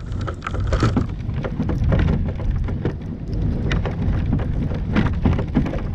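Velomobile's knobby tires and body crunching and plowing through deep, heavy wet snow: a steady low rumble packed with crackling clicks.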